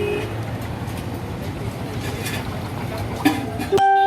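Busy street ambience with traffic noise and faint voices. Near the end it cuts off abruptly and a single held musical note starts.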